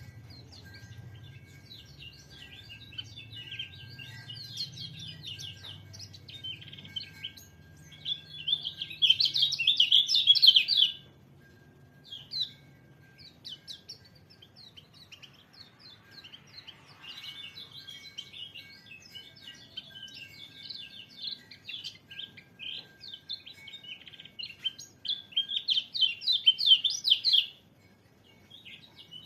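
White-eye (pleci) singing: fast, high twittering song phrases, with two loud, long bursts of rapid chattering, one about eight seconds in lasting some three seconds and another near the end.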